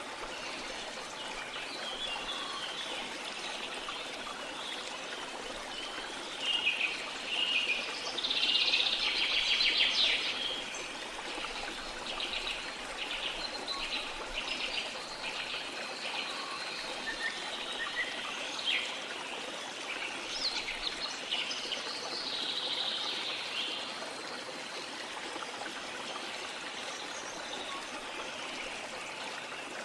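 Small birds chirping and singing over a steady wash of sea water. The birdsong is loudest between about 7 and 10 seconds in, with a fast trill, and is followed by a run of evenly repeated notes.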